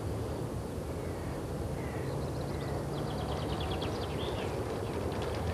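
Birds calling over a steady low background hum: a couple of short calls about two seconds in, then a quick run of high chirps and a single rising-and-falling call.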